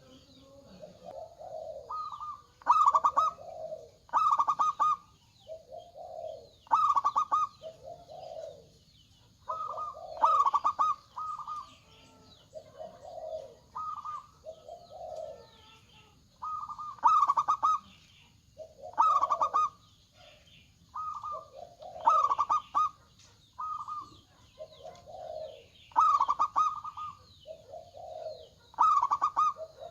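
Zebra doves (perkutut) cooing. Phrases repeat about every two seconds, each a few short clipped high notes followed by lower rolling coos.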